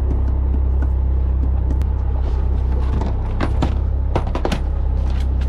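Charter boat's engine running at idle, a steady low rumble, with a few quick clattering knocks about three to four and a half seconds in.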